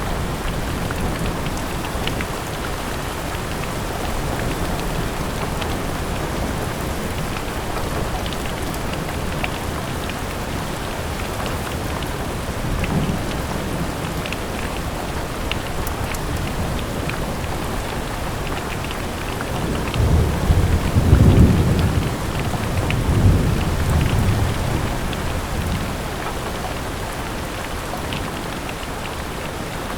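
Steady rain pattering against a window, with scattered single drops ticking. About two-thirds of the way through, a low rumble of distant thunder swells for a few seconds and fades.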